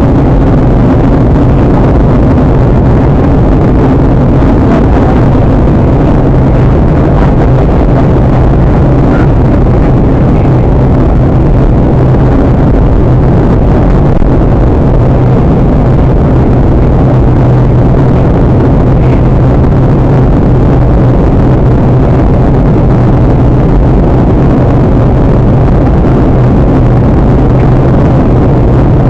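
Steady cabin noise of a Boeing 737-800 in flight: engine and airflow noise with a low, even hum, unchanging throughout.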